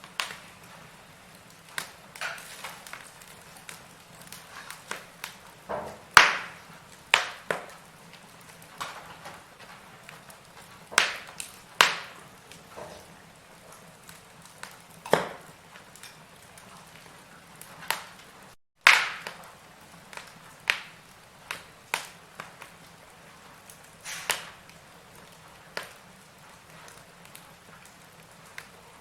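Burning firewood crackling, with irregular sharp pops and snaps scattered through, the loudest about six seconds in and again near nineteen seconds.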